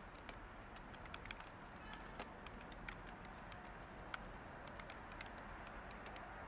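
Light typing on a computer keyboard, irregular soft key clicks over a steady background white-noise hiss.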